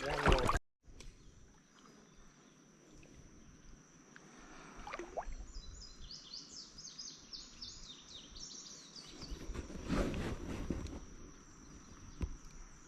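A songbird singing a quick run of repeated high chirps for about three seconds in the middle, over a faint steady high-pitched hum. A brief louder noise comes about ten seconds in.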